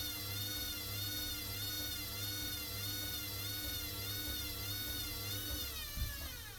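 Hoover washer-dryer's drum motor whining at spin speed, its pitch wavering up and down about twice a second, then falling as the spin begins to wind down near the end. A single thump about six seconds in.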